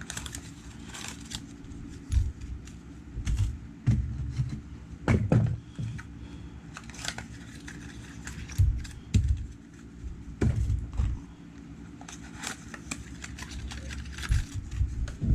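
Hands unboxing small drone motors: irregular rustling, crinkling and clicking of the packaging, with low handling bumps.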